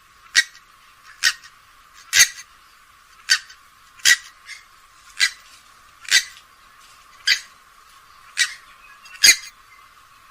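Grey-headed swamphen giving short, sharp call notes, about ten in a row, roughly one a second.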